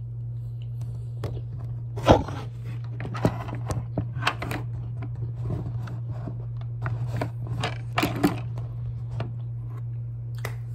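Tapatio-spiced mixed nuts being chewed close to the microphone: irregular dry crunches, the loudest about two seconds in, with a steady low hum underneath.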